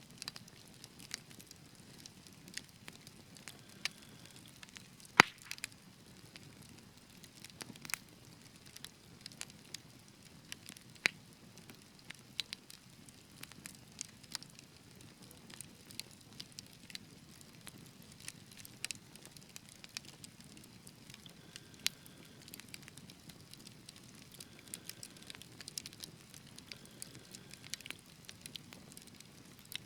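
Wood fire crackling in a fireplace: a soft low rush of flames with irregular sharp pops and snaps, the loudest pop about five seconds in.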